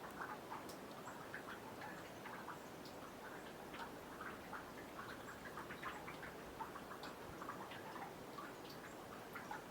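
Meltwater from snow dripping off a boardwalk into a nearly frozen pond: many faint, irregular drips and plinks, several a second.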